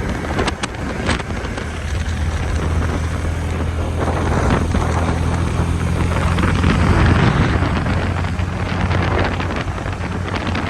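Vehicle driving at steady speed: a low, even engine hum with tyre and road noise, and wind buffeting the microphone. There are a few light knocks in the first second.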